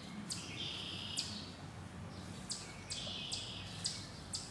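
Small songbirds chirping: a run of quick high notes, each sliding down in pitch, some trailing into a lower buzzy trill, over a faint steady low hum.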